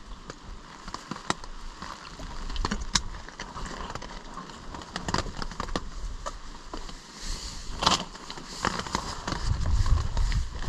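Irregular sharp clicks and crackles at close range, with gusts of wind buffeting the microphone near the end.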